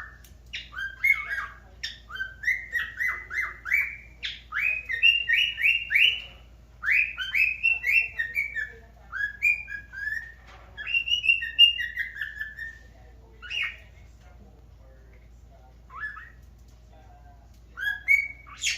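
Cockatiel whistling a song of quick, short slurred notes, several a second, in long runs; it breaks off about two-thirds of the way through, leaving only a few single calls near the end.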